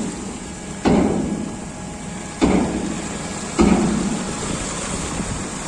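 Clanks from a ship's ramp door being hoisted: three sharp knocks about a second to a second and a half apart, each ringing briefly, over a steady mechanical hiss.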